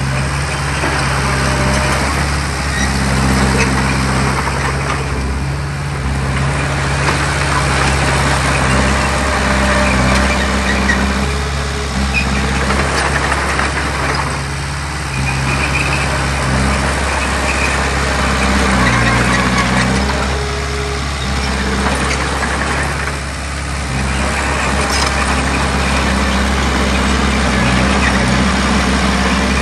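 Heavy diesel engine of earthmoving machinery running steadily under varying load, its pitch shifting a few times, over a rough grinding noise that swells and fades every few seconds.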